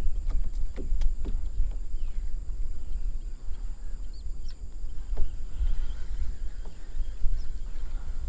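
Wind buffeting the microphone as a steady low rumble, with a few light knocks now and then.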